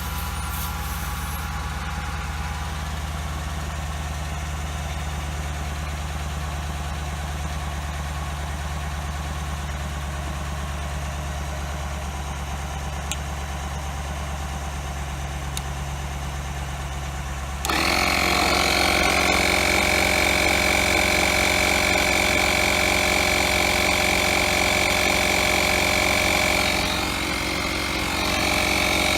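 A Dodge Challenger R/T's V8 idles with a steady low hum. About two-thirds of the way in, a 12-volt portable tire-inflator compressor switches on abruptly and runs loud with a steady high whine over a buzzing rattle. It dips briefly near the end.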